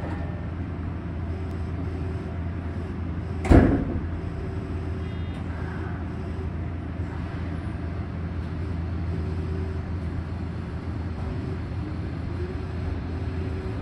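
Inside a Tobu 70000 series commuter train car: a steady low hum, with one loud, short thump about three and a half seconds in.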